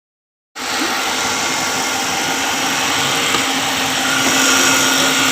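Car engine idling, starting abruptly about half a second in, with a steady whine from the front accessory belt drive, a noise traced to the idler pulley.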